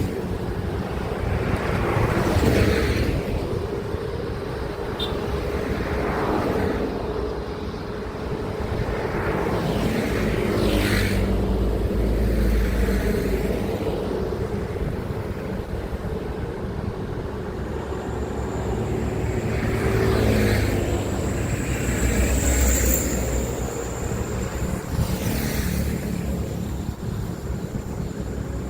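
Heavy highway traffic, with truck engines running and several vehicles passing one after another, each swelling and fading with its tyre noise. A thin high whine joins about two thirds of the way in.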